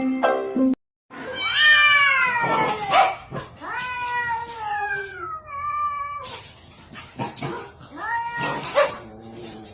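Cat meowing: two long, drawn-out meows that fall in pitch, then a shorter meow near the end, with a few clicks and knocks in between.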